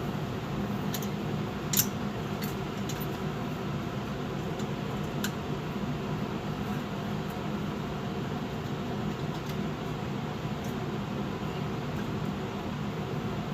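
Light metal clinks of brackets and hardware being handled, a few sharp ones in the first five seconds, the loudest about two seconds in, over a steady mechanical hum.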